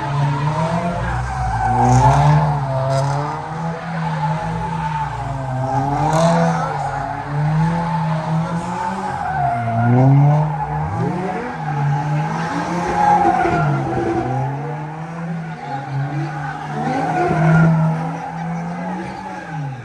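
A car engine revving hard, its pitch rising and falling again and again, while the tyres squeal and skid in a sustained burnout-style slide.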